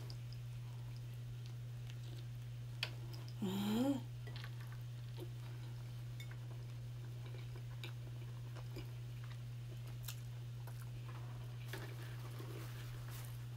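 Close chewing of a chili cheese dog, with faint wet clicks of the mouth and a short rising "mmm" about three and a half seconds in, over a steady low hum.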